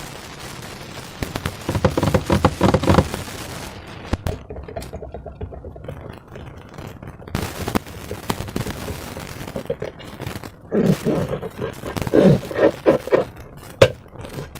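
Slime being squeezed and worked by hand, giving two spells of rapid wet crackling and popping from trapped air, one about two seconds in and a longer one near the end, with a few single clicks between.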